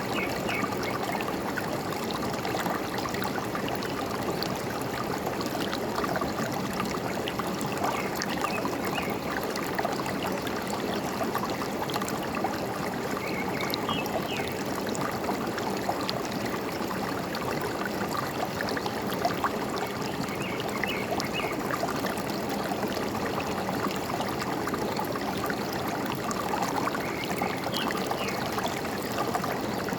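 Forest stream running steadily, a constant gurgling and trickling of water, with a few faint, brief bird chirps now and then.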